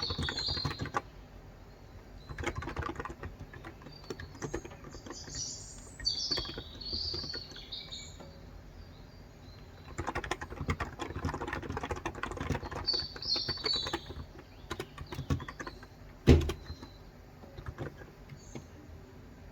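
Typing on a Cox Endeavor 35 g electrostatic capacitive (non-contact) tenkeyless keyboard, in bursts of keystrokes separated by pauses, with one louder thump about sixteen seconds in. Birds chirp in short phrases in the background.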